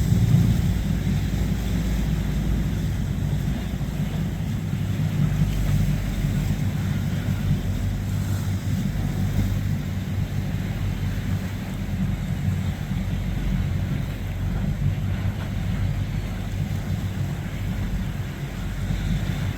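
Boat engine running with a steady low drone, with wind on the microphone.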